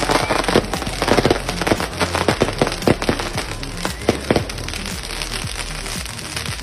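Fireworks on a festa junina bonfire going off in a quick run of sharp pops and crackles, thinning out after about four and a half seconds, with music playing underneath.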